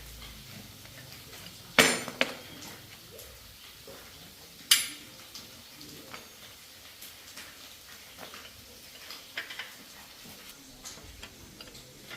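Metal tools and bike parts being handled: two sharp, ringing metallic clanks about three seconds apart, with lighter clicks and taps between and after.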